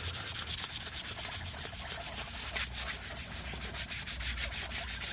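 An abrasive pad scuffing the old paint off a steel Nuffield tractor wheel to key it for repainting: a steady rasping with many rapid, even strokes.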